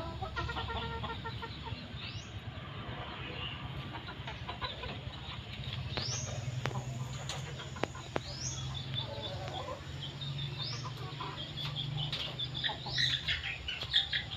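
Birds calling: short rising calls every two or three seconds, with a burst of busier chattering toward the end, over a low steady hum.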